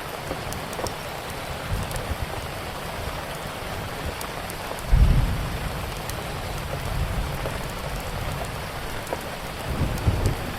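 Steady rain with low rolls of thunder, the loudest about halfway through and another near the end. Sparse faint crackles of a wood fire sit on top.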